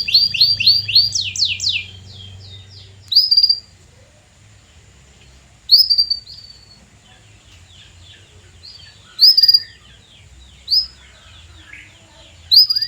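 Canary singing: a fast trill of repeated downward-sweeping notes that slows and fades by about two seconds in. It goes on with loud single chirps every two to three seconds and faint twittering between them.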